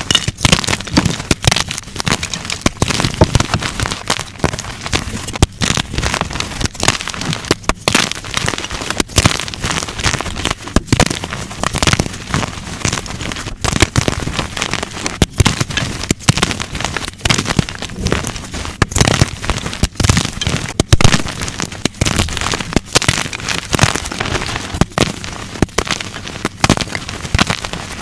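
Blocks of dyed gym chalk being crushed and crumbled by hand: a dense, unbroken run of sharp crunches and crackles.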